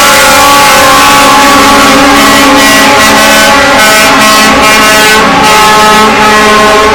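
Trucks driving past in a convoy with horns sounding in long held tones. It is very loud, close to overloading the phone's microphone.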